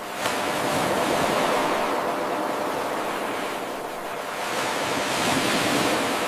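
Ocean waves washing onto a shore, a steady rushing hiss that swells twice, a few seconds apart. There is a brief click about a quarter second in, where the eight-second recording loops back to its start.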